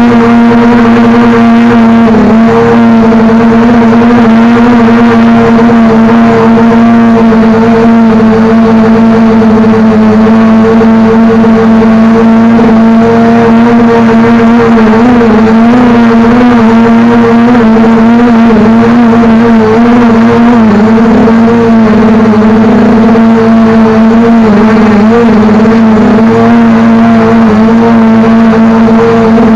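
DJI Mavic Pro quadcopter's propellers and motors droning steadily in flight, a loud hum whose pitch wavers slightly as the motors work.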